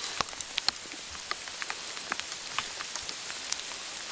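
Sleet falling and ticking on surfaces: a steady hiss with many sharp, irregular ticks, several a second.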